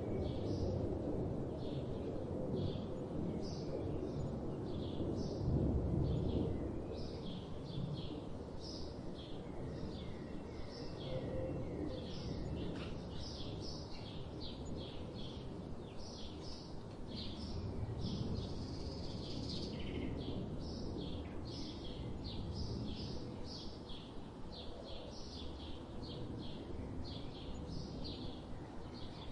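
Small birds chirping, a rapid run of short high calls throughout, over a low background rumble that is heaviest in the first few seconds.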